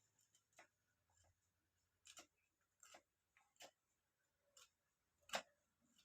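Near silence broken by about six faint, irregularly spaced clicks and taps, the loudest a little over five seconds in.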